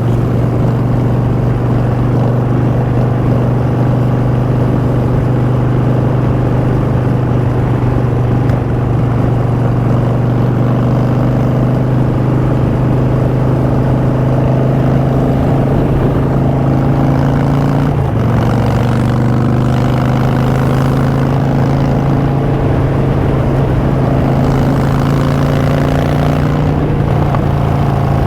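Harley-Davidson Street Bob's Twin Cam 103 V-twin through Vance & Hines Short Shots exhaust, running steadily at cruise. The engine note dips briefly and picks up again about two-thirds of the way through.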